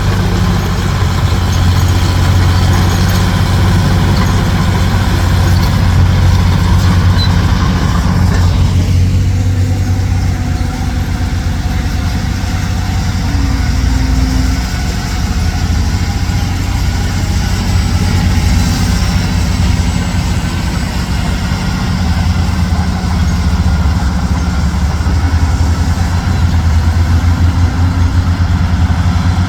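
Heavy diesel engine running steadily with a deep, even drone. About eight seconds in, a higher, rougher layer of noise drops away and the engine runs on alone.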